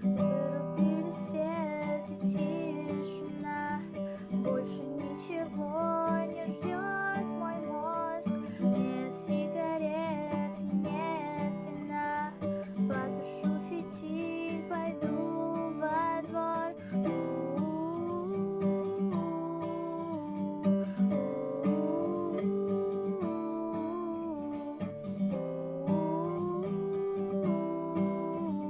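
Acoustic guitar strumming chords, with a gliding melody line over it.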